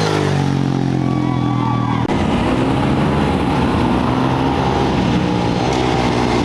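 Off-road race motorcycle engines running, with a steady engine note for about two seconds, then a sudden change to a rougher, busier engine sound.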